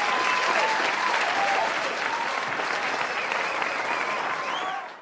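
A group of people clapping and cheering, with whoops over the applause, fading out near the end.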